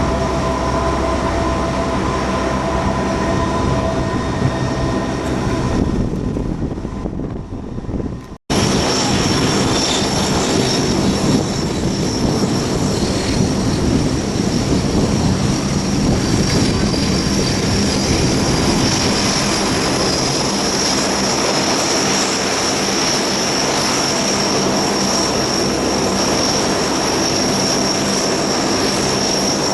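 Lockheed P-3C Orion's Allison T56 turboprop engines running loud at close range, with propeller noise and a steady high turbine whine. The sound drops out sharply for a moment about eight seconds in, then the engines carry on.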